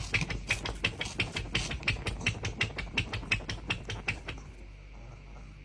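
A quick, even run of sharp clicks or taps, about six a second, that stops about four seconds in.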